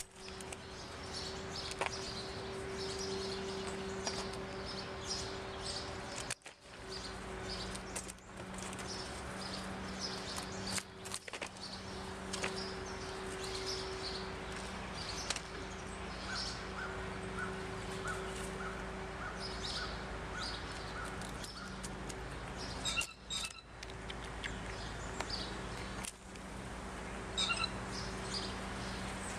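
Small birds chirping repeatedly, with a run of lower, evenly spaced call notes about halfway through. A steady low hum runs underneath.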